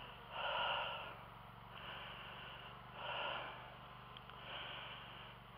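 A man breathing heavily close to the microphone, strong breaths out alternating with lighter breaths in, about one every second and a half. A faint steady low hum runs underneath.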